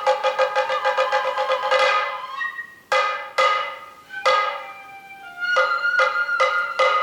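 Sato kagura festival music (kagura-bayashi) of drums and flute. A fast run of ringing drum strokes breaks off about two seconds in, a few single strokes follow, and a held high flute note enters about five seconds in under renewed strokes.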